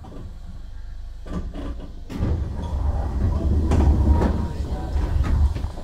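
Cab-side running sound inside a Keihan 7200-series electric train. A few clicks and knocks come first, then from about two seconds in a loud low rumble swells, with a faint steady whine over it, and drops back sharply just before the end.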